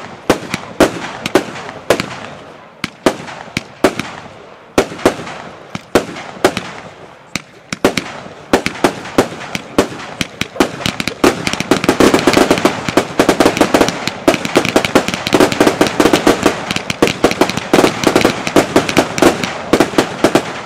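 Consumer firework battery firing shot after shot, a couple of sharp bangs a second at first. From about halfway through it becomes a dense, rapid string of bangs that cuts off at the end.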